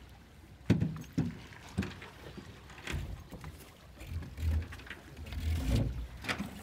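A small boat's dinghy being handled and readied: irregular knocks and thumps, with bursts of low rumble between them.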